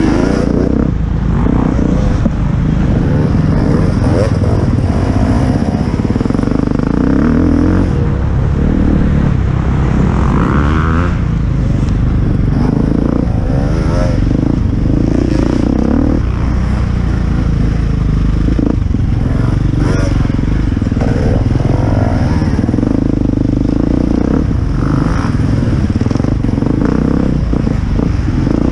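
Enduro motorcycle engine running hard and revving up and down as the bike is ridden over a rough dirt trail, heard close up from the rider's camera.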